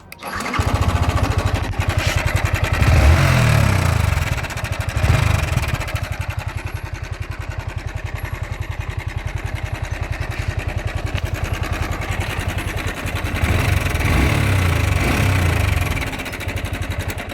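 Yamaha R15 V4's 155 cc single-cylinder engine running, revved up twice, a few seconds in and again near the end, then settling back. This is the engine noise the owner complained of, which is put down to a faulty timing chain tensioner.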